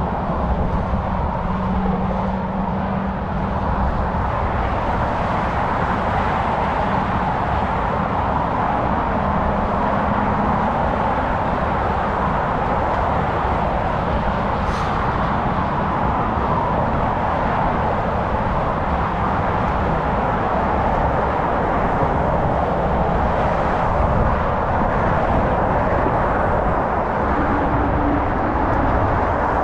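Steady wind and road noise from a bicycle-mounted GoPro while riding, mixed with a continuous rush of nearby motor traffic. A short high tick comes about halfway through.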